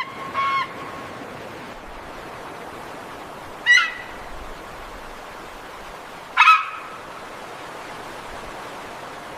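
A bird giving short, harsh, honk-like calls, three of them a few seconds apart, over a steady background hiss.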